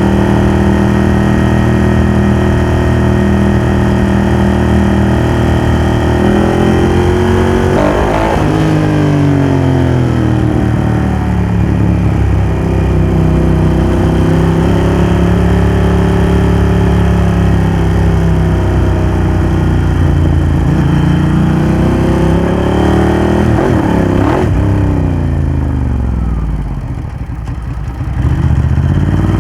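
Ducati Hypermotard 1100's air-cooled L-twin engine running through a Termignoni exhaust under riding load. The engine note holds steady, drops and climbs again about eight seconds in, and falls away as the bike slows near the end before picking up once more.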